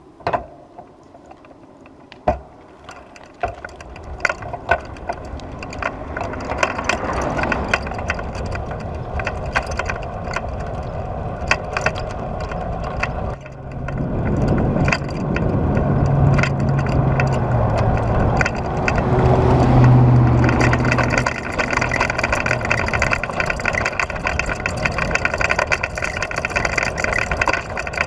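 Steady road and traffic noise with a motor vehicle's engine hum swelling and fading about halfway through, over many small clicks and knocks.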